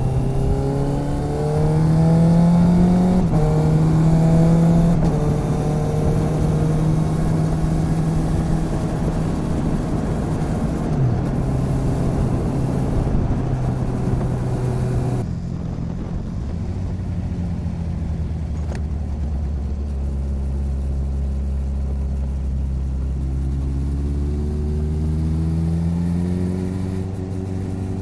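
Motorcycle engine under way, picked up by a recorder mounted on the bike: the pitch rises in steps early on as it pulls through the gears, holds steady, drops to a low, slower beat about halfway through as the rider eases off, then climbs again near the end.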